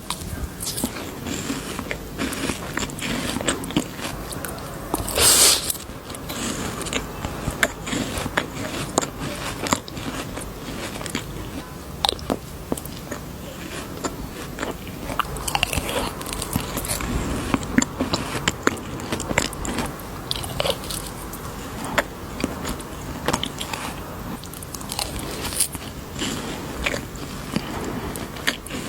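Close-miked crunching and chewing of candy, a steady run of crisp crackles and clicks, with a louder rustling burst about five seconds in.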